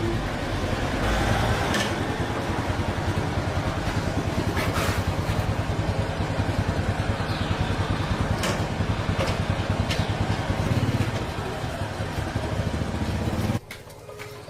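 Small motorcycle engine running at a steady idle, with a fast even pulsing and a few sharp knocks over it. It cuts off abruptly about a second before the end, as the engine is switched off.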